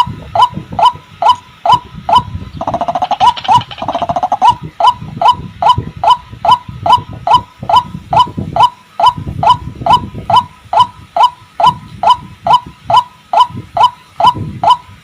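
White-breasted waterhen (ruak-ruak) calling, a loud pitched note repeated steadily about twice a second, with a fast stuttering run of notes about three seconds in.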